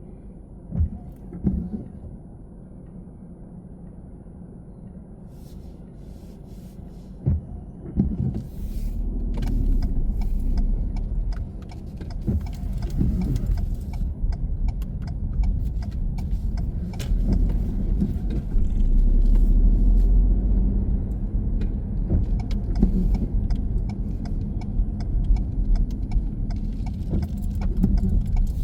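Car driving: a low road rumble that grows louder about eight seconds in, with many small rattles and clicks over it, and a few dull thumps before it.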